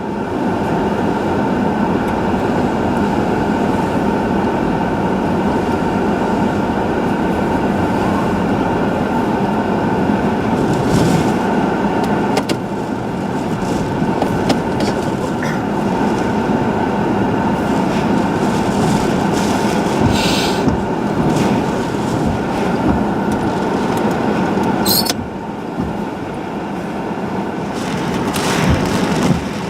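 Hurricane Florence's eyewall winds blowing hard and without let-up, a continuous train-like rush of wind. A few brief sharp noises cut through it, around 20 seconds in and again near 25 seconds.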